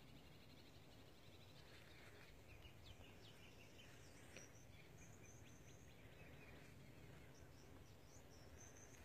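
Near-silent woodland quiet with faint distant bird chirps: a scatter of short chirps, then, from about four seconds in, short runs of thin high notes.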